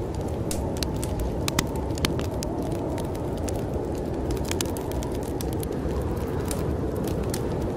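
Wood fire crackling, with irregular sharp pops, over a steady low rush of storm wind.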